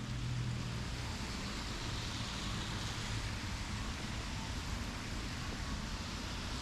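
City road traffic: a steady hiss of car tyres on a snowy street that swells about halfway through, with a low engine hum in the first few seconds.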